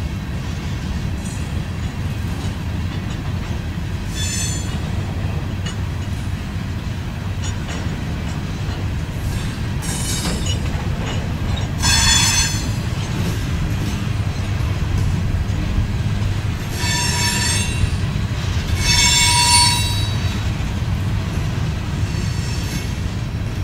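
Empty rock hopper cars of a freight train rolling past, with a steady low rumble. High, ringing wheel squeals break in several times, loudest about halfway through and again later on.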